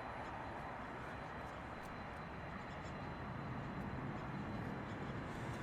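Steady distant jet-engine rumble of airliners at an airport, an even noise with no distinct events.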